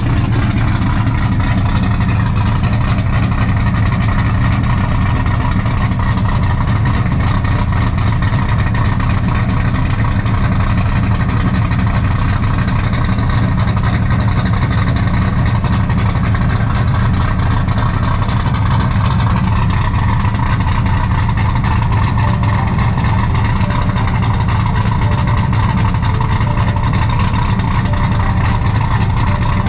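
LS V8 engine swapped into a BMW E46, running steadily in gear and turning the newly installed driveshaft. The note holds one even pitch throughout, with no revving.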